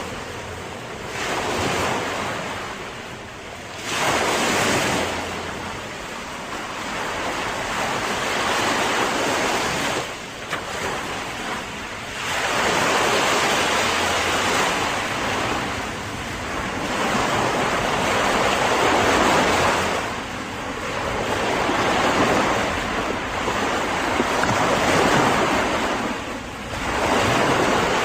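Sea waves breaking and washing in, the surf swelling and receding every few seconds, with a steady rush of noise between them.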